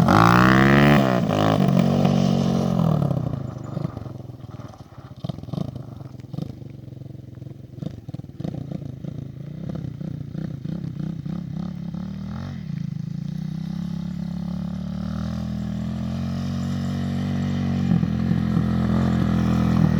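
250 cc dirt bike engine: loud and revving at first, its pitch dropping within the first couple of seconds. It then runs much quieter and unevenly for several seconds before its note grows steadily louder toward the end.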